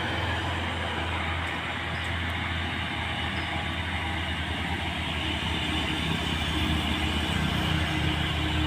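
Heavy diesel truck engine, from a Mitsubishi Fuso tronton truck, running with a steady low drone as the truck works up the hill; it grows a little louder and a higher tone joins in near the end.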